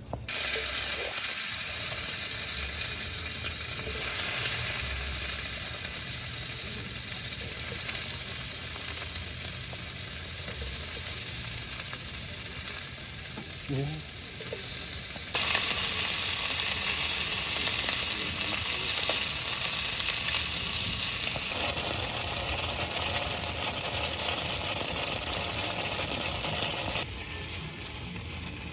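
Heavy rain falling, a dense steady hiss that starts suddenly, grows louder about halfway through and eases near the end.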